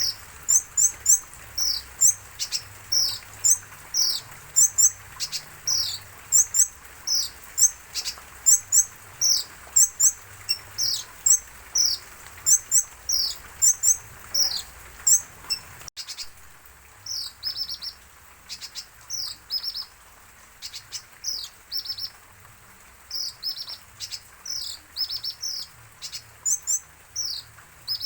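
A kolibri ninja (sunbird) chirping over and over: short, sharp, high notes about twice a second. About halfway through the calls drop in level, and some become quick little trills.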